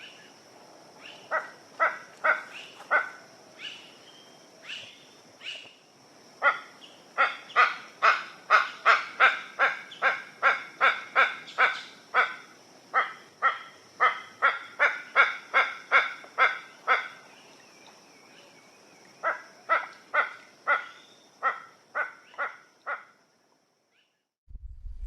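A bird calling in a long series of short, harsh notes, about two to three a second, pausing twice, over a steady high thin whine in the background. Everything cuts off shortly before the end.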